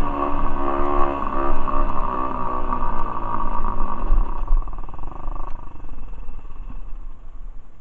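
Small single-cylinder pit bike engine running under throttle, its pitch wavering up and down as the revs change, then dropping away and getting quieter about five and a half seconds in.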